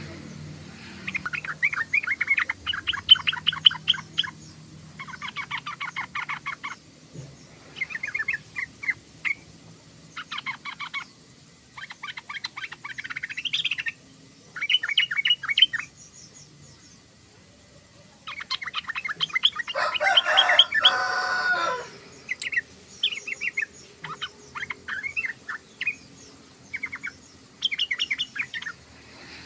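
Sooty-headed bulbul (trucukan) singing and chattering in short phrases of rapid repeated notes, a phrase every second or two. A louder, harsher burst of chatter comes about twenty seconds in.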